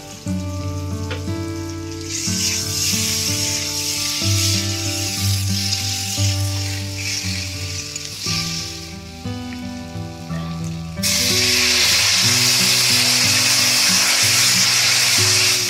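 Curry of elephant foot yam and fish sizzling in a hot wok as it is stirred with a metal ladle, over background music. About eleven seconds in, the sizzle jumps suddenly louder and stays loud as water is poured into the hot wok.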